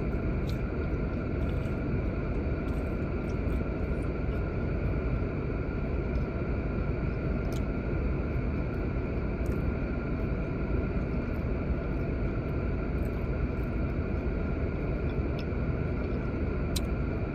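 Steady hum inside a parked car's cabin from the idling engine and the heater fan, unchanging throughout, with a few faint clicks.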